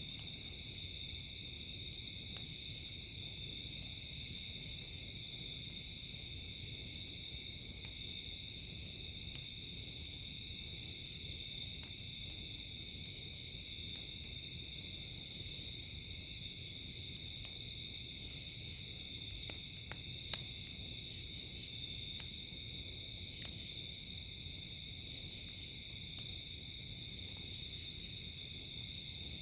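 A steady chorus of crickets and other night insects singing, with a few sharp pops from a crackling campfire, the loudest about 20 seconds in.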